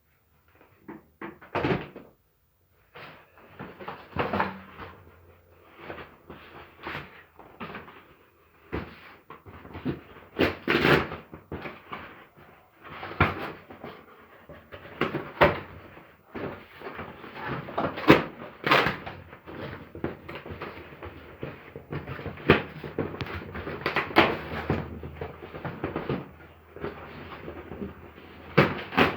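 Irregular knocks, taps and rubbing from a refrigerator door and its rubber door gasket being handled during a gasket change, with a few sharper knocks about a third and two-thirds of the way through.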